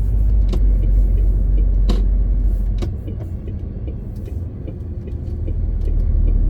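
MAN TGX 18.520 truck's 12.4-litre inline-six diesel running under way, heard from inside the cab as a deep drone with road rumble. It eases off about three seconds in and builds again near the end, with scattered clicks and rattles.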